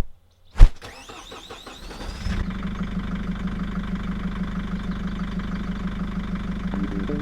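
Two sharp thumps, then an engine being started: a rising whine of cranking for a second or two, then the engine catches a little over two seconds in and idles steadily with a regular pulse.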